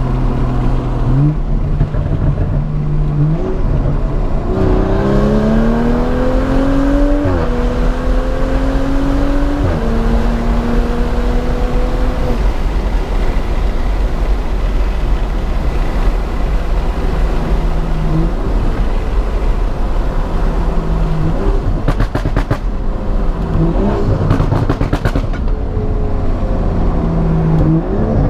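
Straight-piped BMW M235i's turbocharged inline-six exhaust pulling hard through the gears: three rising runs in pitch, each cut off by an upshift, then steadier running with a few brief crackles of burble later on.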